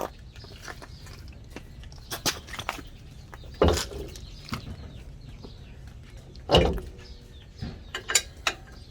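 Knocks and clicks of a strut assembly and its bolts being handled and fitted into the front suspension, with two heavier knocks, one about a third of the way in and one about two-thirds in.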